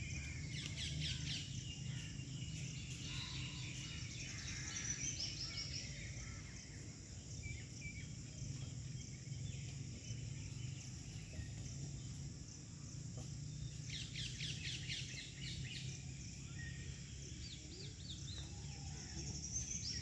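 Outdoor ambience: birds chirping in several short bursts of quick high calls, over a steady low background hum.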